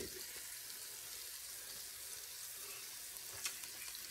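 Tuna, butter and pepper mixture sizzling steadily in an enamelled skillet on low heat, with a single spoon click against the pan about three and a half seconds in as a spoonful is scooped up.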